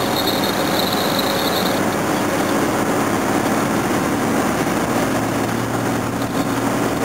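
A 1969 Jaguar XJ6's straight-six engine running while the car drives along, with road noise. In the last couple of seconds a steadier low engine note comes through.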